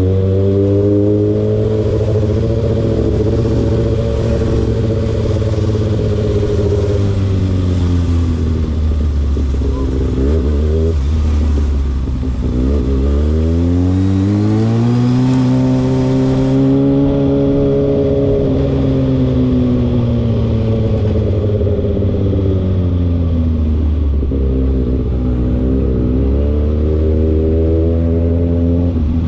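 A car engine running loudly at close range with a steady note. About a third of the way in its pitch drops, then it climbs in a slow rev about halfway through and eases back down to a steady note.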